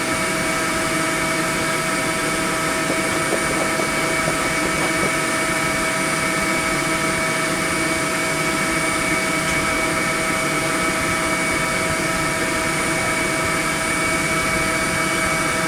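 Honeybee swarm buzzing: a steady, dense drone of many bees with no break.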